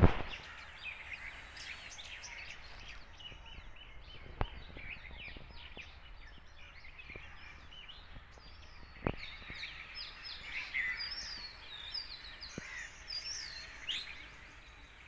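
Several birds chirping and calling at once in a chorus of short, overlapping chirps that grows busier in the second half, over a low steady background hiss. A couple of sharp clicks break in, about four and nine seconds in.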